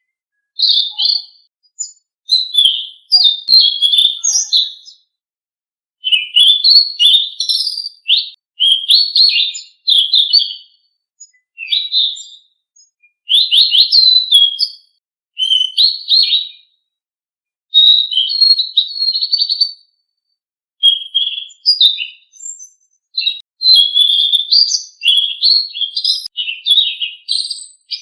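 Song of a Selendang Biru songbird: rapid, high chirps and trills in phrases of one to two seconds with short pauses between them.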